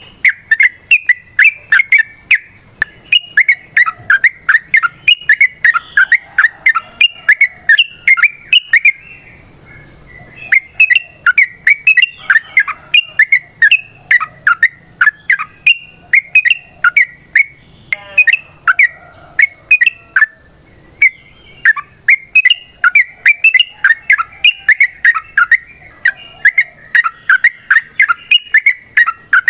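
Yellow-vented bulbul giving a long, fast run of chattering chirps, about three sharp notes a second. The run breaks off briefly about nine seconds in and again around twenty seconds.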